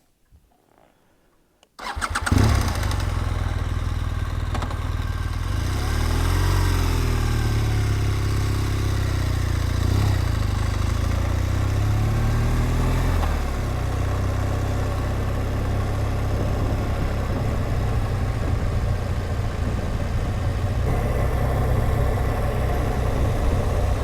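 BMW R1200GSA motorcycle's flat-twin boxer engine starting about two seconds in and then running, its pitch rising and falling for several seconds in the middle before settling.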